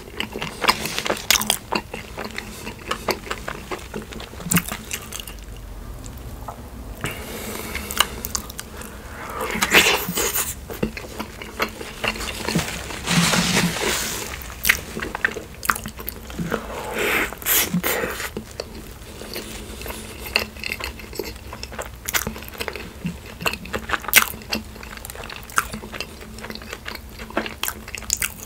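Close-miked chewing and biting of an In-N-Out animal-style meal: wet mouth clicks and smacks, with a few louder bursts about ten, thirteen and seventeen seconds in.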